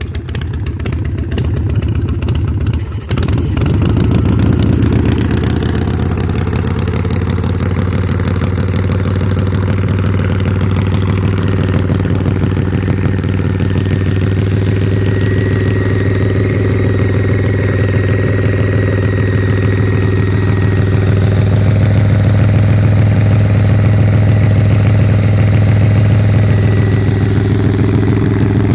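Motorcycle V-twin engine of a 2005 West Coast Choppers chopper running just after a cold start: unsteady for the first few seconds with a brief dip about three seconds in, then settling into a steady idle that grows slightly louder.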